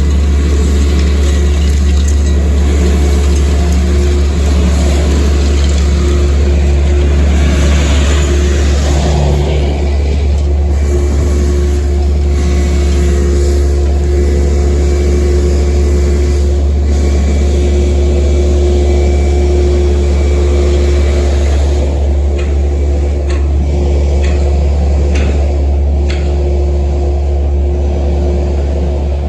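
Steady low drone of a road vehicle driving along, with a constant hum and road noise and no sudden events.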